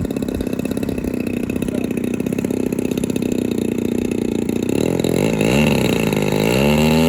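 DLE 30 single-cylinder two-stroke gasoline engine of a radio-controlled model plane idling with a steady chugging beat, then revving up and dropping back briefly about five seconds in, and climbing in pitch again near the end.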